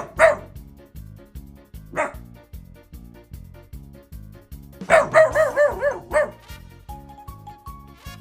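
Young rescued dog barking on guard: two sharp barks at the start, one about two seconds in, then a quick string of about six barks around the five-second mark. It is alarm barking, the dog's watchdog response to a man's voice outside. Background music with a steady beat runs underneath.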